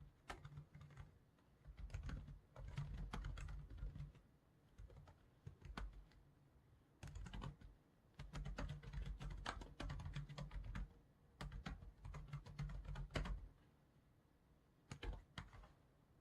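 Computer keyboard typing in bursts of rapid keystrokes, with short pauses between runs.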